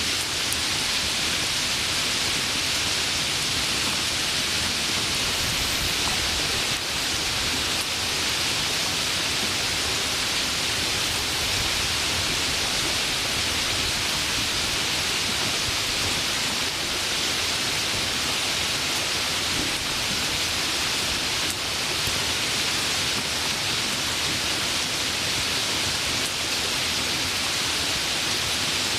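Heavy rain falling steadily, an even, hissing wash of noise with no pauses.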